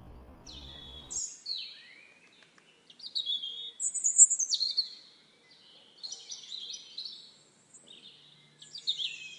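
Songbird singing: bursts of high, varied chirps and trilled phrases separated by short pauses, loudest about four seconds in. A low steady hum underneath cuts off about a second in.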